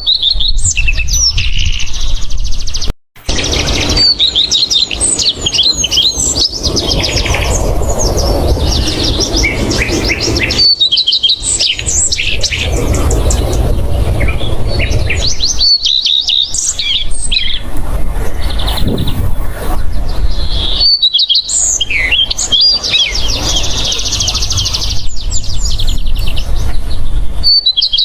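Daurian redstart calling in runs of quick, high chirps and short trills, over a loud low rubbing rumble. The sound cuts out briefly a few times.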